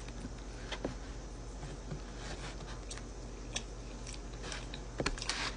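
Someone chewing a bite of a chili-topped foot-long hot dog: faint, scattered wet mouth clicks and ticks over a steady low hum, with a few sharper clicks about five seconds in.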